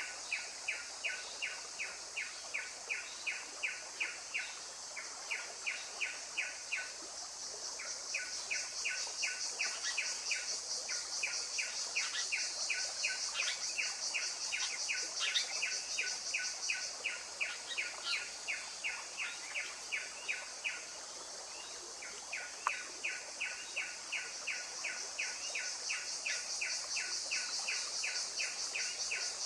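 A bird repeating one short chirping note about three to four times a second, in long runs broken by brief pauses. Behind it is a steady high-pitched insect drone that swells and fades.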